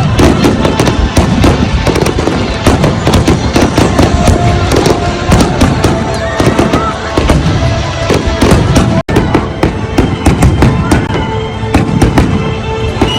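Large fireworks display: a dense, continuous barrage of bangs and crackles in quick succession, with music faintly underneath.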